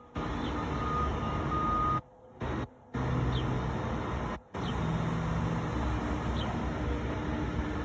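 Steady low rumbling outdoor noise that cuts out abruptly a few times, with a few faint short falling chirps over it.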